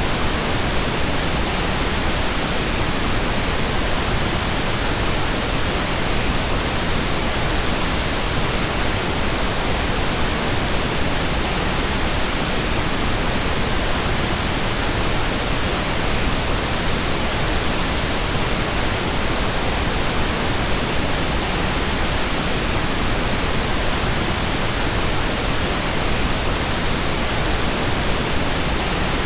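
Steady, unbroken pink noise: an even hiss across all pitches that does not change.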